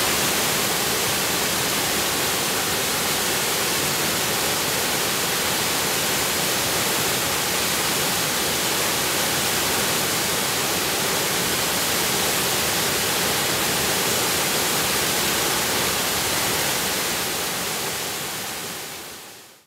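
Waterfall, a steady rushing of falling water that fades out near the end.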